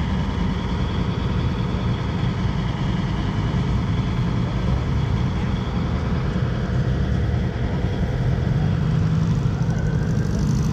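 Car engines running at low speed as cars drive slowly past, giving a steady low engine note that grows a little louder near the end.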